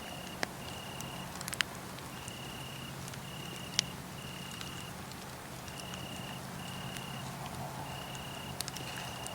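Crickets chirping in short trills, about one half-second trill a second, over a wood fire crackling with a few sharp pops, about half a second in, near one and a half seconds, near four seconds and near the end.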